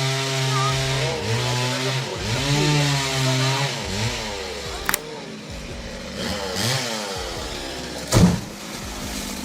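Chainsaw engine running, its pitch rising and falling as it is revved through a cut, with a sharp loud thump near the end.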